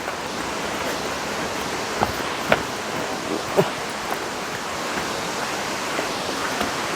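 Aagaya Gangai waterfall crashing down, a steady dense rush of falling water, with a few brief sharp sounds over it about two to four seconds in.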